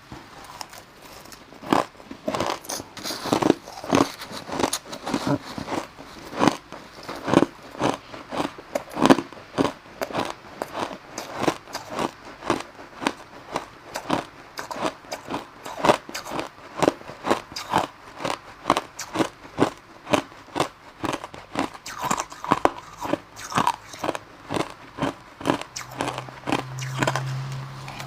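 A person biting and chewing crushed ice, crisp crunches coming about two to three times a second without a break.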